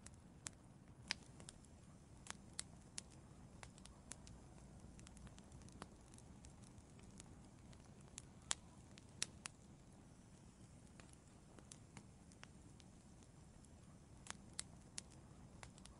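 Wood fire in an outdoor fireplace crackling: sharp, irregular pops and snaps over a low, steady hiss of burning.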